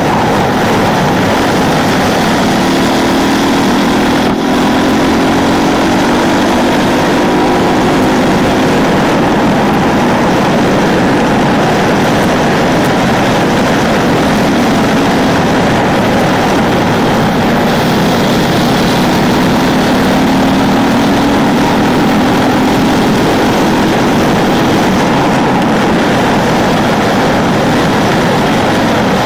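Ducati 999 L-twin engine pulling hard at road speed under a rider's onboard camera, its pitch climbing steadily as it accelerates, twice.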